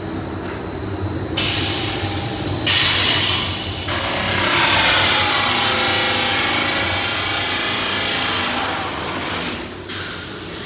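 Pipe-factory machinery running with a steady low hum. A loud hiss cuts in about a second and a half in, grows louder, holds for several seconds and dies away near the end, with a short final burst.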